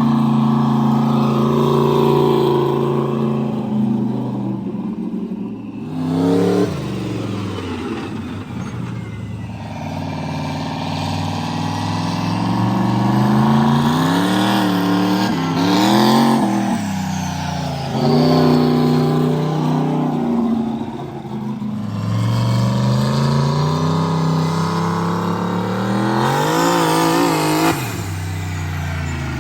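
Turbocharged 4.8-litre V8 truck engine running under way, its pitch climbing and dropping several times as it is revved and let off between steadier stretches.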